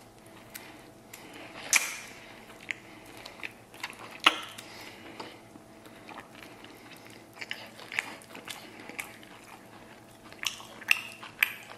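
Close-up chewing and lip smacking of a mouthful of rice mixed with chili oil, potato and stewed lamb, with scattered sharp clicks and smacks; the two loudest come about two and four seconds in, and more cluster near the end.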